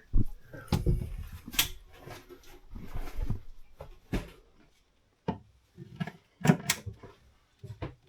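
Irregular knocks and clunks of galley drawers and locker doors being handled: about a dozen sharp knocks, some with low thuds, with a brief quiet spell midway.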